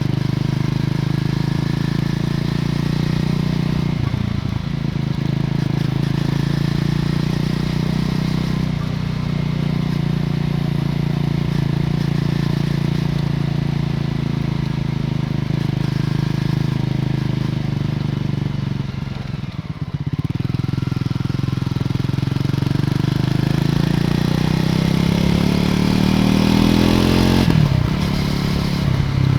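Triumph Scrambler 400 X's single-cylinder engine through its stock exhaust, riding along at steady revs. The sound dips briefly twice as the throttle eases. Near the end it revs up in a rising pitch that drops sharply just before the end.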